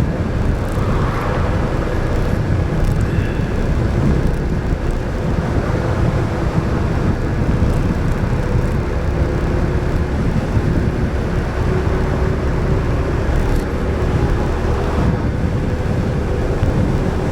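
Yamaha Majesty scooter cruising at a steady speed: a constant low engine drone under rushing wind and road noise on the action camera's microphone.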